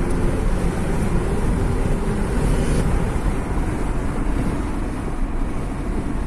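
Wind buffeting the microphone over a running engine: a loud, steady low rumble.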